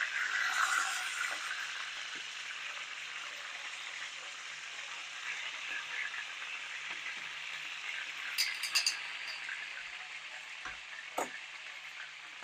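Chicken thighs and drumsticks sizzling steadily as they pan-fry, a little louder in the first second just after being flipped. A few light clicks come about two thirds of the way through.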